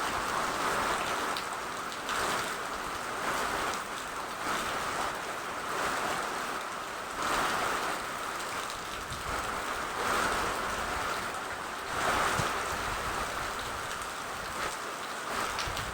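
Rain falling steadily, a dense hiss with scattered sharp drop ticks, swelling and easing in waves about every second and a half.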